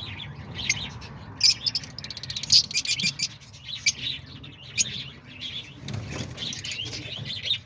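A flock of lovebirds chirping, with many short, high chirps overlapping throughout.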